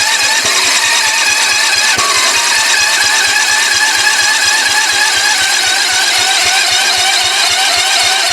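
Electric starter cranking a garden tractor's 10 hp Briggs & Stratton engine: a steady whine with about six even compression beats a second. The engine turns over but does not catch.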